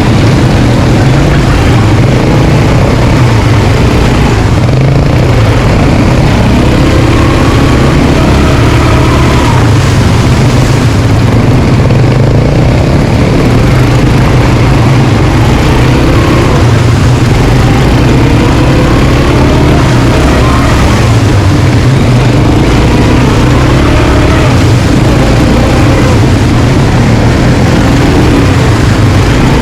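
Quad bike engine running while riding, its pitch rising and falling again and again as the throttle opens and closes.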